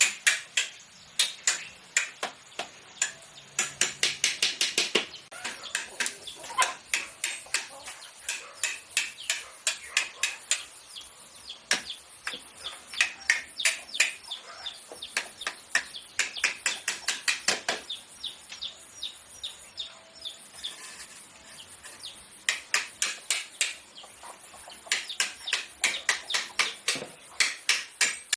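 Rapid sharp knocks, several a second, coming in runs of a few seconds with short pauses, like repeated chopping or tapping on a hard surface. Chickens cluck now and then in the background.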